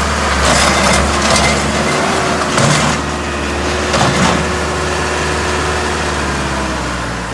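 Mahindra 6010 tractor's diesel engine idling steadily, with a few brief clatters about a second in, near three seconds and about four seconds in.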